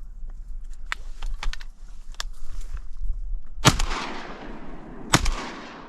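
Two shotgun shots about a second and a half apart, each followed by a long fading echo across the marsh, fired at incoming ducks.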